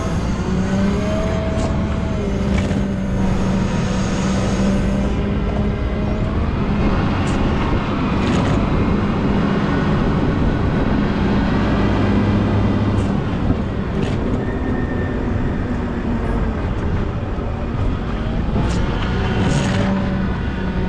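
Volvo L90H wheel loader's diesel engine running under load while plowing snow, its pitch rising and falling several times as the revs change.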